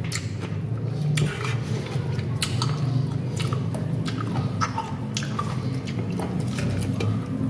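Close-up chewing of juicy fresh pineapple: wet mouth clicks and smacks at irregular intervals, over a steady low hum.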